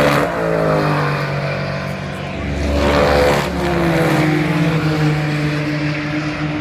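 GT race cars going past at speed: one passes at the start and another about three seconds in. Each car's engine note drops in pitch as it goes by.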